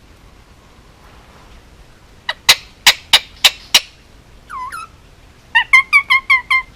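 Indian ringneck parakeet calling: about six sharp, loud shrieks in quick succession, a short call that bends in pitch, then a fast run of about seven short chirps near the end.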